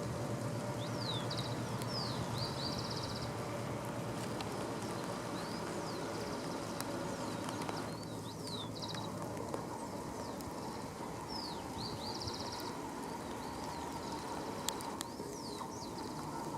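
Steady rain with a songbird repeating the same short phrase, a few quick sweeping whistled notes ending in a buzzy trill, about every five seconds.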